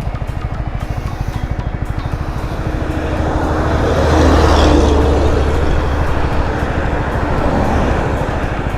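Yamaha R15 V3's single-cylinder engine running steadily at highway cruising speed, with road and wind noise. A larger vehicle swells and fades as it passes close by, loudest about halfway through.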